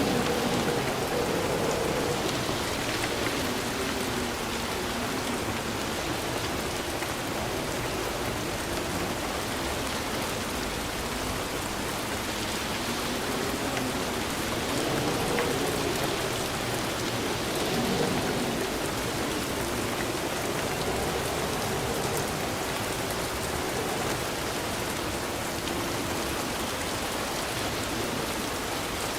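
Steady rain falling, a dense, even hiss of drops. A lower wavering whoosh swells and fades a few times underneath.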